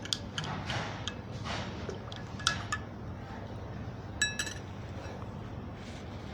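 Teaspoon clinking against glassware while Thandai milk is stirred: light taps at first, then two ringing clinks about two and a half and four seconds in.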